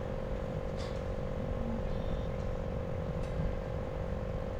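A steady motor hum with one constant tone over a rumbling low end, and two faint ticks, about one second in and a little past three seconds.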